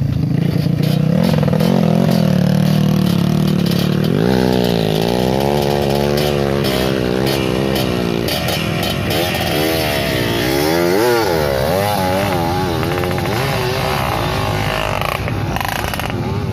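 Trail motorcycle engine running, then revving up and down over and over from about four seconds in, its pitch rising and falling.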